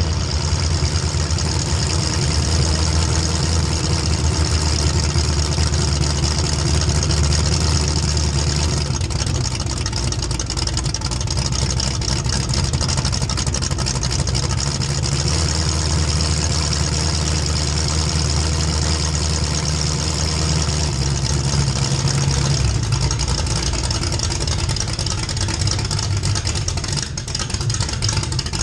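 A race vehicle's engine running steadily at fairly low speed, heard close up, its pitch shifting slightly a few times, with a constant hiss of wind or road noise over it.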